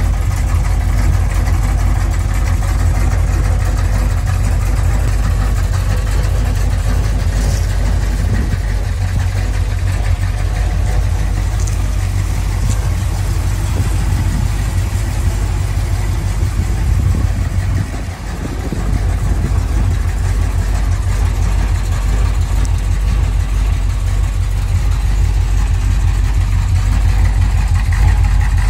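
1965 AMC Marlin fastback's engine idling steadily, deep and low-pitched, with a brief dip in level about two-thirds of the way through.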